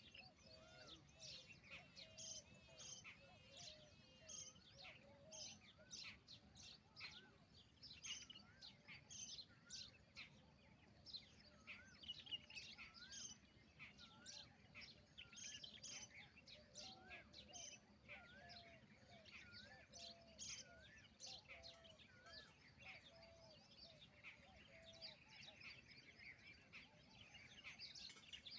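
Faint chorus of birds chirping, with a short, wavy whistled note repeated about once a second through much of it.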